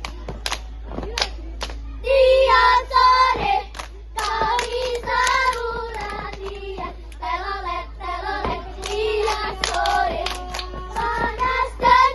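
A group of children clapping in rhythm, then singing a cheer in unison over the clapping from about two seconds in.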